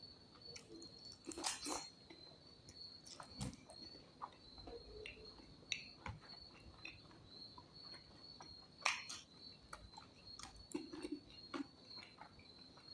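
Faint close-up eating sounds: irregular soft clicks and smacks of chewing pork ribs and curry, over a steady high chirring of crickets.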